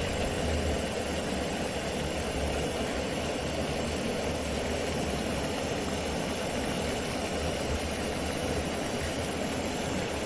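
A vehicle engine running steadily: a low, even hum with a rumble over it.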